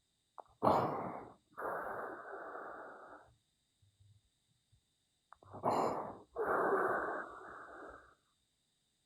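A person breathing heavily close to the microphone: two breaths, each a short loud burst followed by a longer, quieter one.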